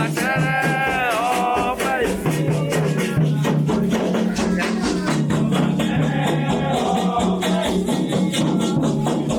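Candomblé ritual song: a voice singing over steady percussion with rattles. The sung line stands out in the first two seconds.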